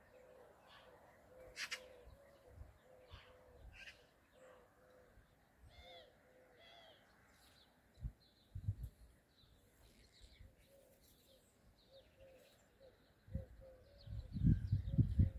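A bird repeats a short low note over and over, about two a second, with faint chirps of small birds above it. Near the end, loud low rumbles hit the microphone.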